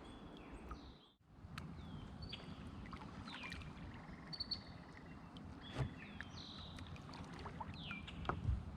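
Kayak paddling, with water moving around the paddle and hull and two sharp knocks, one past the middle and one near the end, while birds call with short falling chirps.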